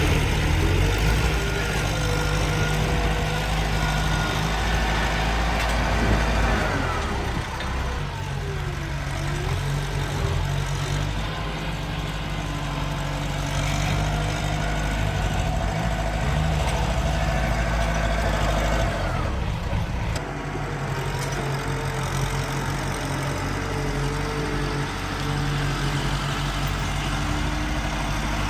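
Tractor engine running steadily and heavily, with a low note that shifts slightly about a quarter and two-thirds of the way through, and a higher wavering tone above it.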